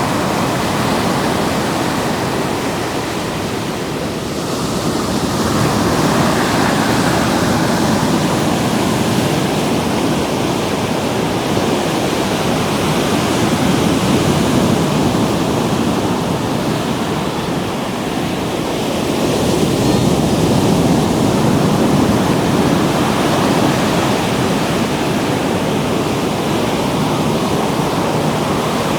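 Ocean surf breaking and washing in, a steady rushing wash that swells and eases in slow surges every several seconds, with some wind on the microphone.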